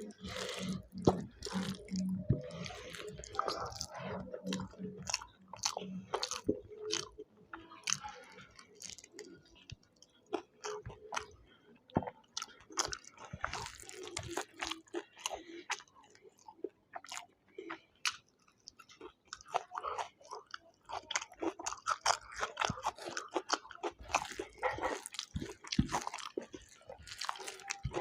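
A person chewing and biting food close to the microphone: irregular short, sharp clicks with soft wet mouth sounds between them.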